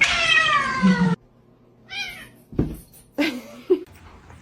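Domestic cat meowing: one long meow falling in pitch that stops abruptly about a second in, then a short, higher meow about two seconds in.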